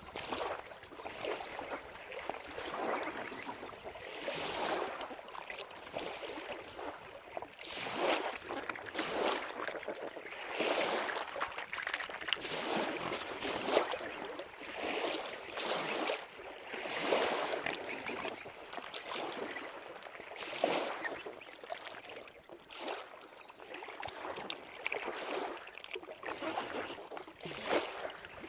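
Small waves lapping and splashing at the lake's edge, in irregular swells every second or two.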